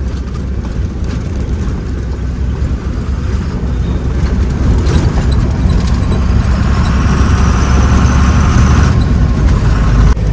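Truck's diesel engine running under way, heard from inside the cab: a steady low rumble that grows louder about four seconds in, with a thin high whine from about five to nine seconds.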